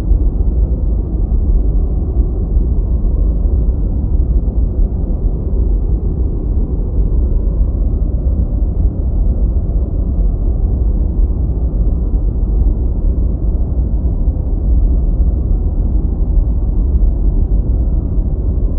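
Deep white noise: a steady, even low rumble of noise with no high hiss, unchanging throughout.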